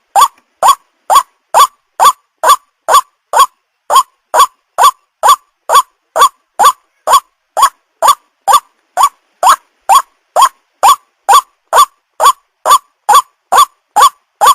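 White-breasted waterhen calling: a short, rising note repeated about twice a second in an even, unbroken series.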